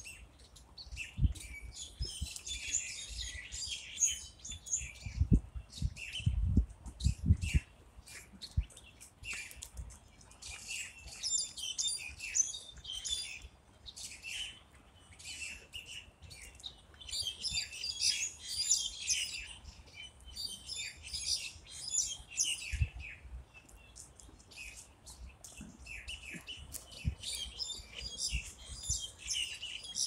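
Small birds chirping in bouts of rapid high-pitched notes every few seconds, with a few short low thumps in the first eight seconds.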